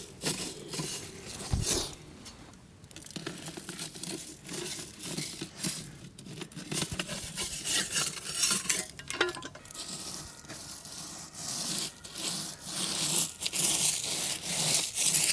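Hands-on work noises from handling and fitting parts: irregular scraping, rustling and small clicks and knocks, with no steady rhythm.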